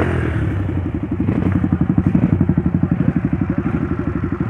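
Motorcycle engine running at low, steady revs with a rapid, even putter.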